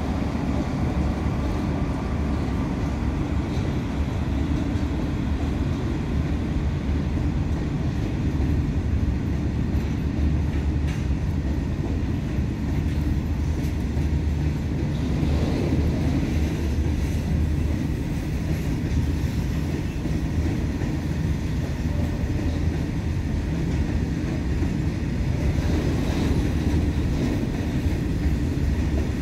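Goods train of open steel box wagons rolling past, a steady low rumble of wheels on the rails.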